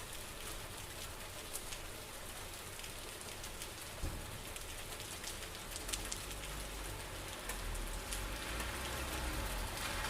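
Steady rain falling, an even hiss with scattered close drops ticking on a surface. A low rumble builds underneath in the second half.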